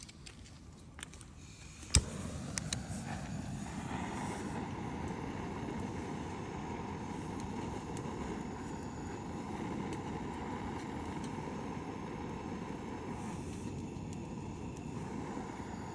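Bonfire burning with a steady low rush and scattered crackles and pops; a sharp pop about two seconds in, after which the steady rush sets in.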